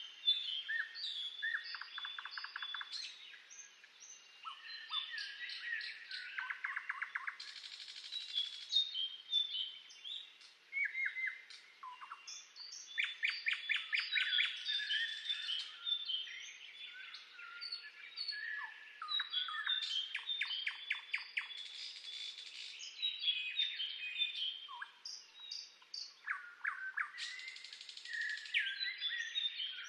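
Several songbirds singing and chirping at once, with overlapping rapid trills and high chirps throughout.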